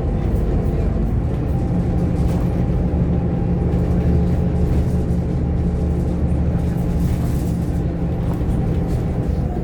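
Scania K230UB OmniLink bus's five-cylinder diesel engine running steadily under way, heard from inside the passenger cabin, with road noise.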